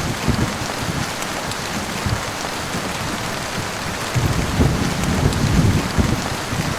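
Steady heavy rain with low rolling thunder beneath it. The rumble swells about four seconds in.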